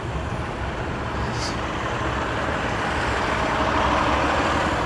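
Street traffic: a steady low rumble of motor vehicles, with one vehicle's noise swelling louder as it passes about three to four seconds in.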